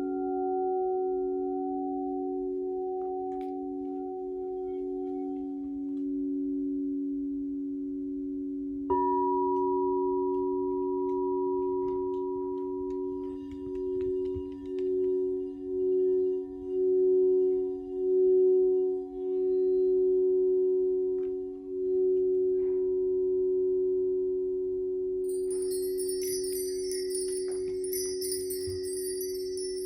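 Crystal singing bowls ringing in two long, steady low tones. A bowl is struck about nine seconds in, adding a brighter higher tone, and for a stretch in the middle one tone swells and fades in a slow pulse about once a second. Near the end, high bright chimes join in.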